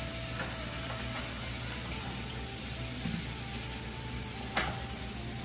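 Fish pieces, onions and green peppers sizzling steadily in a frying pan as they are stirred and turned with a spatula, with one sharp knock about four and a half seconds in.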